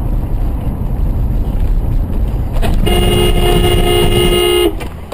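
A car horn blares steadily for about two seconds, starting just over halfway in and cutting off abruptly. Under it is the steady low rumble of a car driving on the road, heard from a dashcam.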